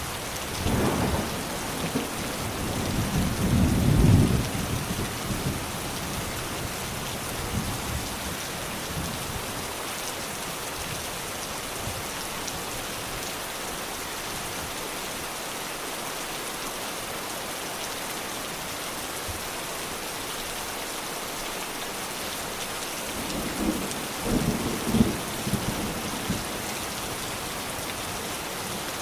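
Steady rain falling, with two rolls of thunder: one building over the first few seconds to a peak about four seconds in, and another about twenty-four seconds in.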